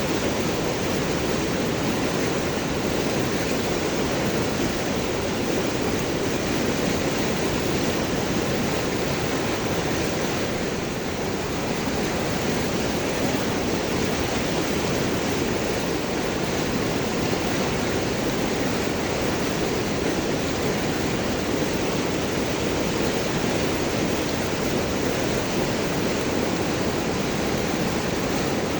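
A river flowing over and around large rocks, a steady full rush of water with gurgling.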